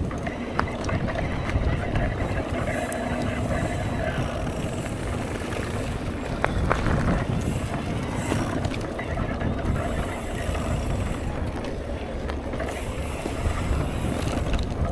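Riding noise from a mountain bike on a trail: steady wind on the microphone and tyre and frame rumble, with a faint high hiss that comes and goes in stretches of a second or two.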